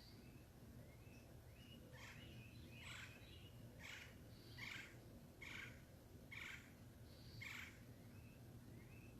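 Birds calling outdoors: a series of about seven short calls roughly once a second, with faint short rising chirps around them.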